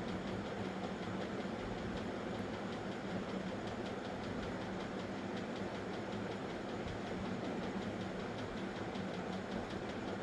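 Steady machine-like running noise with a low hum and a faint, fast, even ticking.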